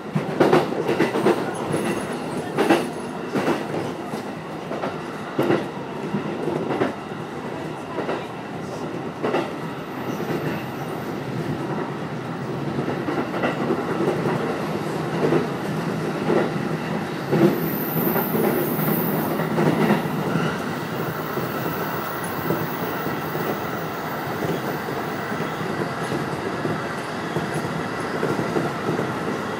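Keiyō Line rapid electric train running at speed, heard from inside the front car: wheels knocking over rail joints, thickest in the first third, over a steady running noise. A faint high-pitched squeal sounds for a few seconds past the middle.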